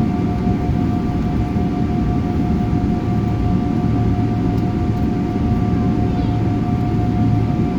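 Steady airliner cabin noise on the ground before takeoff: an even low rumble from the engines and air conditioning with a steady high whine running through it.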